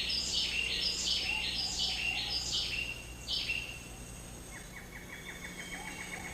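Rainforest ambience with a bird calling over and over in quick falling, stepped phrases during the first half. After a short lull, a rapid buzzing trill takes over.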